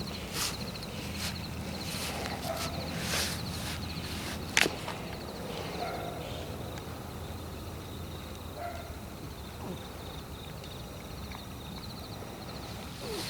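Footsteps crunching on the forest floor, thinning out after about six seconds, with one sharp crack about four and a half seconds in, the loudest sound here. High-pitched insects chirp in quick pulses throughout over a low steady rumble.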